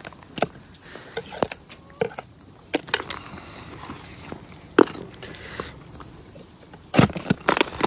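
Irregular sharp knocks and cracks of a pointed metal spike chipping freezing-rain glaze ice off a car, with the loudest strike about five seconds in and a quick run of strikes near the end.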